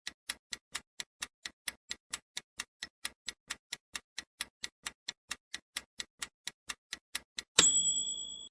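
Countdown-timer sound effect: a clock ticking evenly, about four ticks a second. Near the end a bell chime rings and fades, signalling that the answer time is up.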